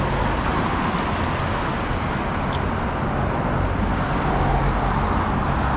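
Steady city road traffic: motor vehicles passing in a continuous rush of engines and tyres.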